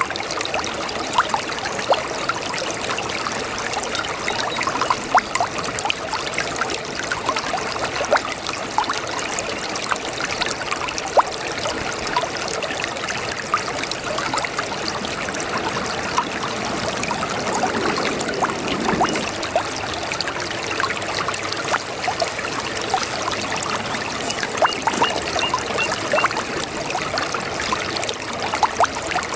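A small brook babbling: water running steadily over stones, with many small splashes and trickles.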